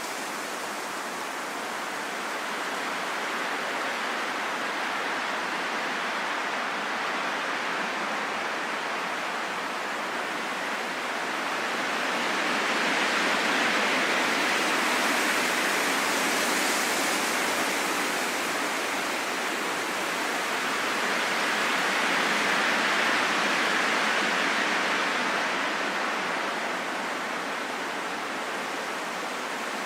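Steady rain falling, an even hiss with no single drops standing out, swelling a little louder twice, about midway and again later.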